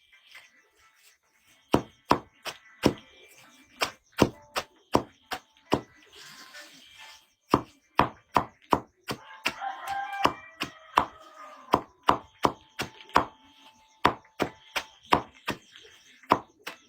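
Rapid chopping: a blade striking hard, about two to three sharp chops a second, with a short pause partway through.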